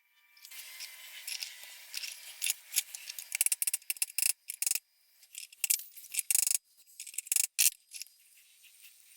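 Metal parts of an old monkey wrench and hand tools clicking, clinking and scraping as the wrench is taken apart: a run of sharp clicks over a hissing scrape.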